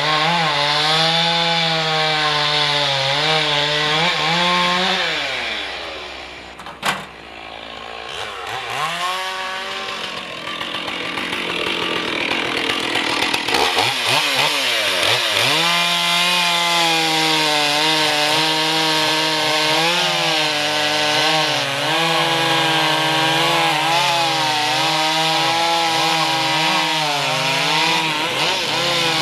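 Two-stroke chainsaw cutting wood, its engine note wavering under load. About a fifth of the way in it eases off and falls quieter, with one sharp knock, then it revs back up and cuts steadily again.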